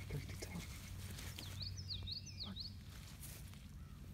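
A bird calls once, a quick phrase of high whistled notes sweeping up and down, about a second and a half in. Soft footsteps on wet ground come near the start, over a steady low rumble.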